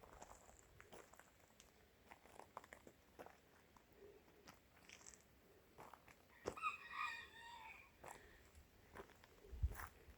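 Near silence: faint scattered clicks and rustles, with a short wavering call lasting about a second, about six and a half seconds in.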